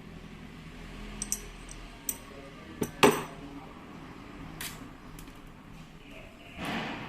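Metal parts and hand tools being handled during disassembly of a rotary hammer: a series of sharp clicks and clinks, the loudest about three seconds in, then a brief rustling scrape near the end.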